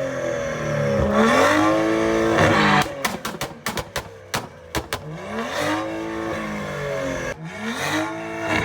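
A car engine revved hard over and over, its pitch climbing and falling in repeated sweeps, with quick sharp cracks from the exhaust as the revs drop between sweeps.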